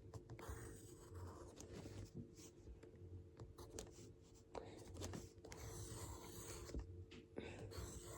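Pencil writing on paper: faint, short scratchy strokes as letters are drawn.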